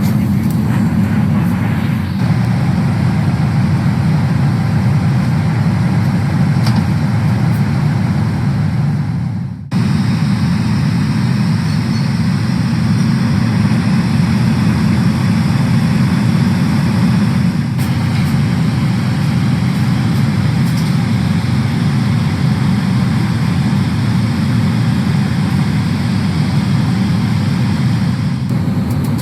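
Steady roar inside the cabin of a Boeing 777-300ER, from its engines and the airflow around it. There is a brief cut about ten seconds in.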